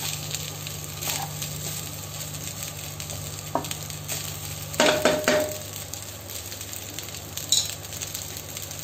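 Egg fried rice sizzling in a nonstick wok over a high flame while a spatula stirs and scrapes through it. About five seconds in come a few louder knocks of the spatula against the pan, with a brief ring.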